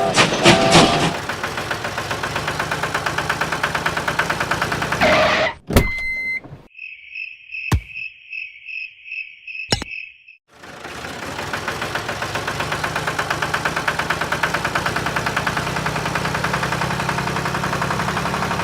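A small motor running with a fast, even rhythmic chug. It cuts off abruptly about five and a half seconds in, and a row of short high beeps, about two a second, sounds in the gap along with a couple of sharp clicks. The motor then starts again and keeps running.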